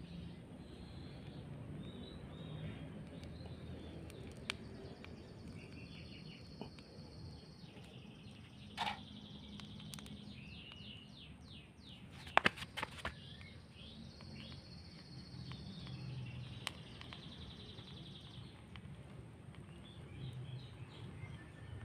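Small birds chirping and trilling over a low steady outdoor rumble. A few sharp clicks or knocks come about 9 seconds in and again about halfway through, the second group the loudest sound here.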